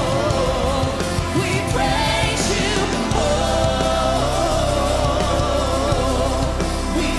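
Church worship music: a sung melody over a band with a steady bass line.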